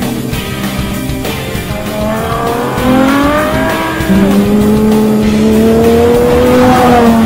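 Ferrari F12 Berlinetta's V12 engine revving hard under acceleration, its pitch climbing in steps through upshifts. It gets louder about four seconds in, holds a long rising note, then eases off near the end.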